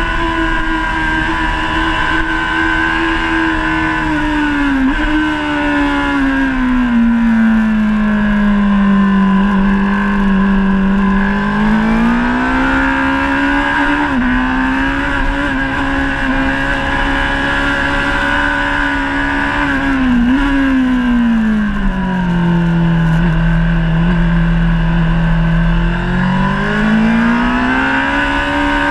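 A 2017 Honda CBR1000RR SP Fireblade's inline-four engine running hard under the rider, its pitch falling and climbing again several times as the throttle is rolled off and opened, with short dips in the note at gear changes.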